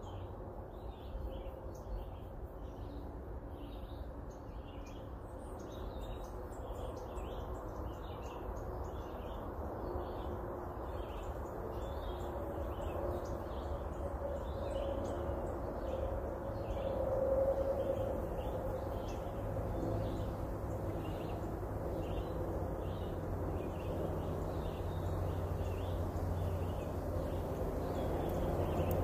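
Birds chirping over and over in quick short notes, above a steady low rumble.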